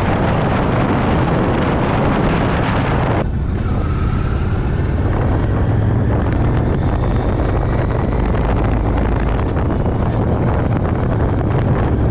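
Motorcycle riding along at road speed: heavy wind rush on the microphone over the steady low engine note. About three seconds in the wind noise drops sharply, leaving the engine more exposed.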